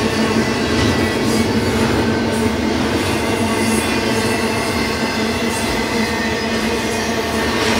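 Double-stack intermodal freight cars rolling past on the mainline: a steady, loud rumble of steel wheels on rail, with faint thin high ringing tones over it.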